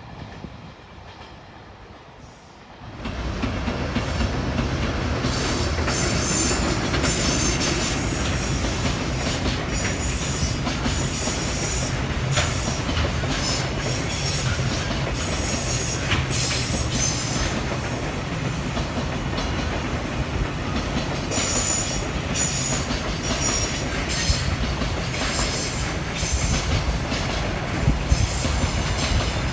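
A freight train passing close by, starting about three seconds in: a heavy, steady rumble and clatter of wheels over the rails, with repeated high-pitched wheel squeal.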